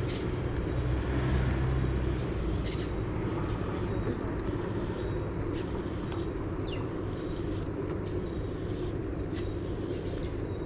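Steady outdoor background noise: a low, even rumble with scattered faint ticks.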